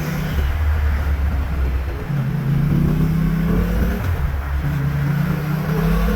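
Yamaha MT-07's parallel-twin engine through a LeoVince underbody exhaust, running low at first, then rising in pitch as the bike accelerates about two seconds in. It drops back briefly and climbs again near the end.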